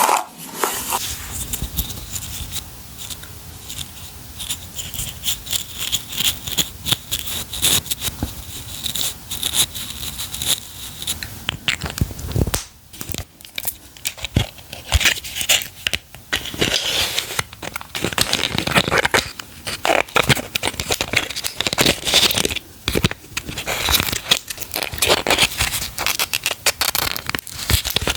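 Packaging being opened and handled close to the microphone: a dense run of crinkling, rustling and tearing crackles.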